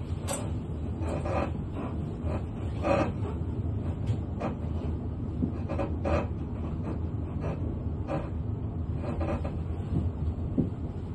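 Interior of a South Western Railway Class 444 Desiro electric multiple unit running slowly. A steady low rumble carries irregular clicks and clunks as the wheels run over rail joints and points on the station approach.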